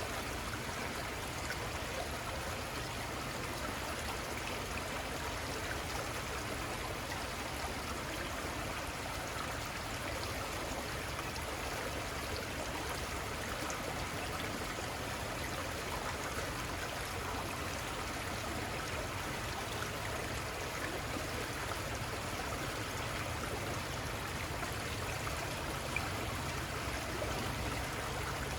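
Steady rushing and trickling of a small river flowing over rocks.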